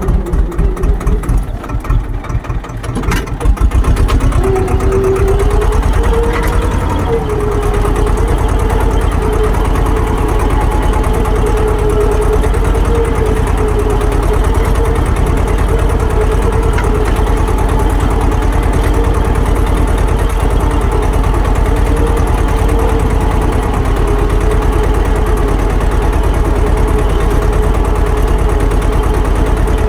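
Swaraj tractor's diesel engine chugging slowly at idle, then about three and a half seconds in it picks up revs and runs steadily at a higher speed.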